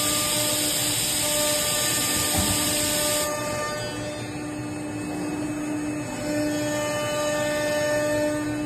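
CNC nesting router running: a steady motor whine throughout, with a loud high hiss that cuts off suddenly about three seconds in while the whine carries on.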